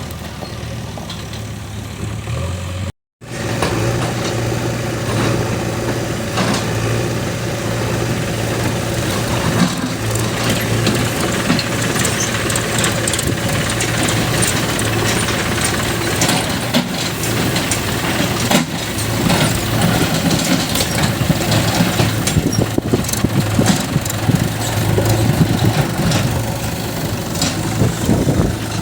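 Heavy diesel engine running steadily with a low hum and mechanical clatter. The sound cuts out for a moment about three seconds in, then the engine goes on running.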